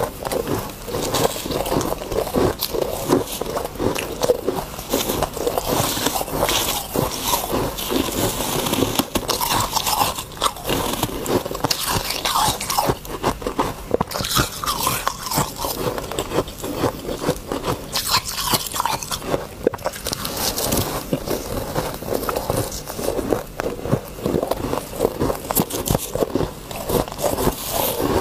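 Ice being bitten and chewed close to the microphone: dense, continuous crunching.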